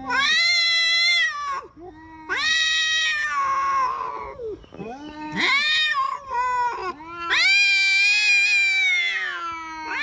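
Two tomcats caterwauling at each other in a standoff, trading long, drawn-out yowls that waver in pitch, one voice high and one lower. This is the threat yowling of male cats fighting over a female.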